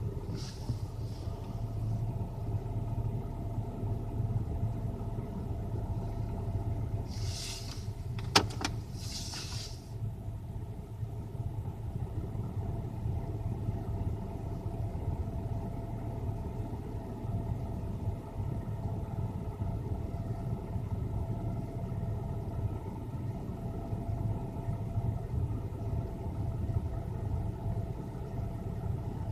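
Lada Granta's VAZ-21126 16-valve four-cylinder idling steadily in winter cold, soon after a cold start, with a faint steady whine above the low hum. Around eight seconds in, two short hisses are heard with a sharp click between them.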